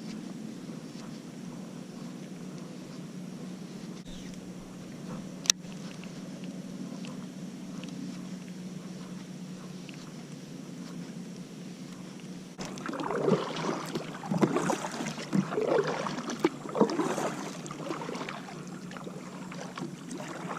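Sounds aboard a fishing kayak on the water: a steady low hum, one sharp click about five seconds in, then several seconds of irregular knocks near the end.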